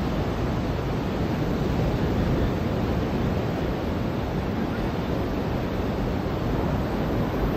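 Ocean surf on a beach: a steady, even rush of waves breaking and washing on the shore.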